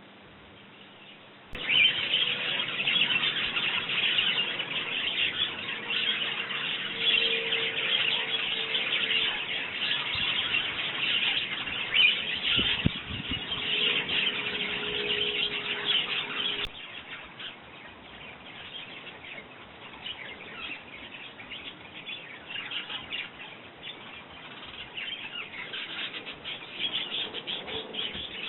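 A busy chorus of sparrows chirping and chattering at a garden feeder. It starts abruptly and loud about a second and a half in, then carries on more quietly from a little past halfway.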